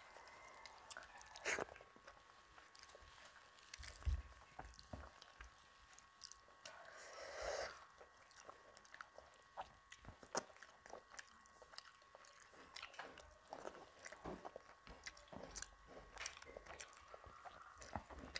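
Close-up eating sounds of a person eating rice and fish curry with the fingers: soft chewing and wet mouth clicks, with a few sharper clicks and fingers working rice on the plate.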